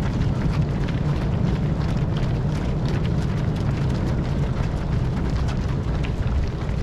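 Light, irregular patter of many marathon runners' footsteps going by over a steady low outdoor rumble.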